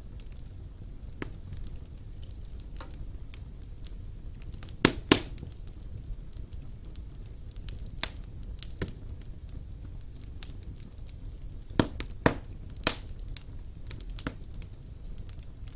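Wood fire burning in a fireplace: a steady low rumble with irregular sharp crackles and pops of the burning logs, a few louder snaps in pairs about five and twelve seconds in.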